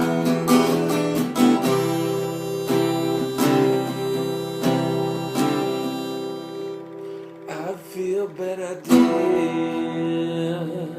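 Acoustic guitar strumming chords, with held harmonica notes over them that waver around eight seconds in. A final strummed chord about nine seconds in is left to ring and fade.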